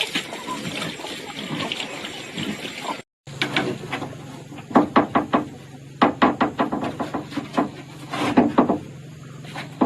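A series of irregular knocks, several in quick succession, over a low steady hum.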